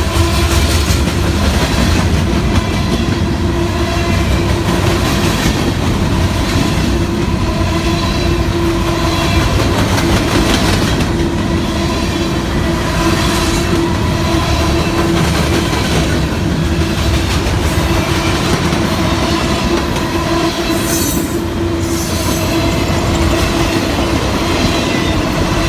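Freight train rolling past at close range: a steady rumble of wheels on rail with repeated clacking over the rail joints and a sustained metallic wheel squeal.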